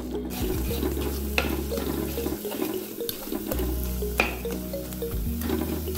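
Ground chili masala sizzling in coconut oil in a clay pot, stirred with a wooden spatula that scrapes sharply against the pot a few times. The masala is being sautéed until cooked through. Soft background music plays underneath.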